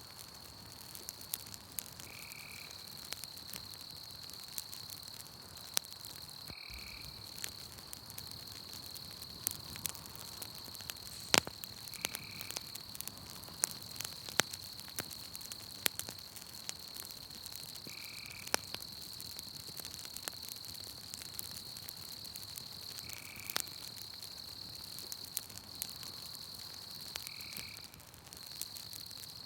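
Campfire crackling with sharp, irregular pops, the loudest about eleven seconds in, over a steady high trill and a short call that repeats about every five seconds.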